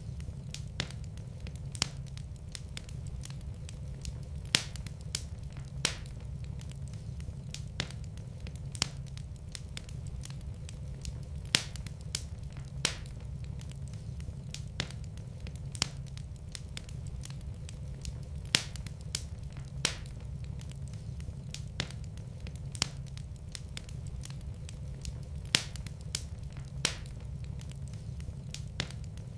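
Wood fire crackling in a fireplace: sharp, irregular pops about once a second over a steady low rumble.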